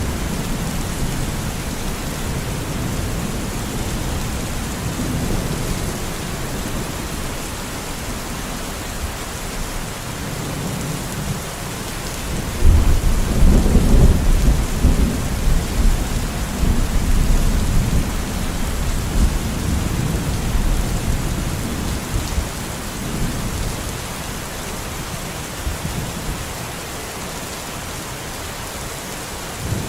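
Steady heavy rain falling, with low thunder rumbling beneath it; about halfway through a loud roll of thunder breaks in and rumbles for several seconds before fading back under the rain.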